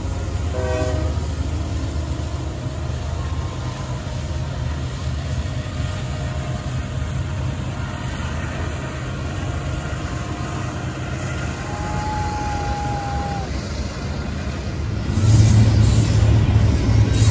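Freight train passing close by: the last short blast of the diesel locomotives' horn in the first second, then the steady rumble and clatter of autorack and double-stack container cars rolling past. A brief thin squeal sounds about twelve seconds in, and the rumble grows louder from about fifteen seconds in.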